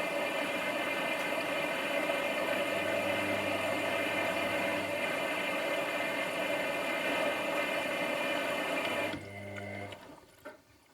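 Washing machine running with water rushing through it and a faint steady hum, cutting off suddenly about nine seconds in and dying away.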